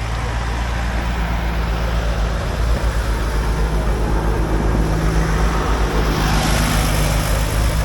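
Vintage agricultural tractor engine running steadily with a low, even pulse. A broad hiss joins about six seconds in.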